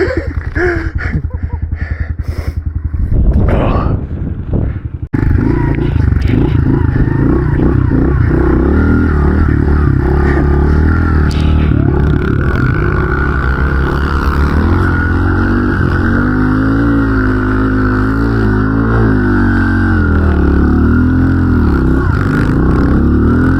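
110cc pit bike engine running as the bike is ridden, revs rising and falling. It stutters unevenly for the first few seconds, breaks off abruptly about five seconds in, then runs on continuously with a wavering pitch.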